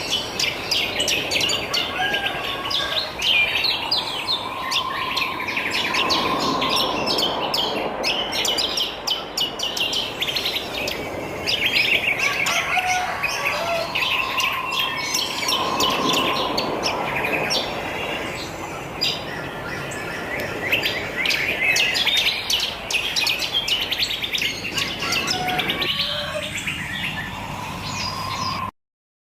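A dense chorus of many wild birds chirping and twittering at once, with rapid overlapping chirps and a few longer mid-pitched whistles. The sound cuts out briefly near the end.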